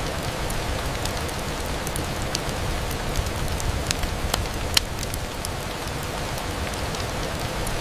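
Rain on a window mixed with a crackling fireplace: a steady rain rush with scattered sharp pops and ticks, the loudest a little before five seconds in.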